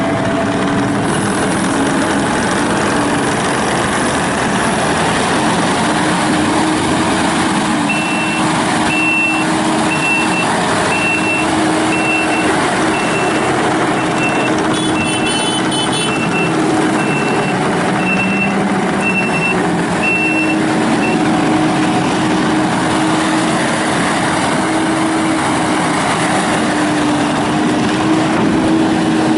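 Kubota SVL95-2S rubber-track skid steer's four-cylinder turbo-diesel engine running steadily. From about a third of the way in, its reverse alarm beeps about once a second for some thirteen seconds as the machine backs up.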